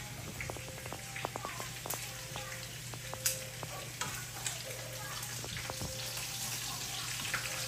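Food frying in a pan: a steady sizzling hiss dotted with small crackles and pops.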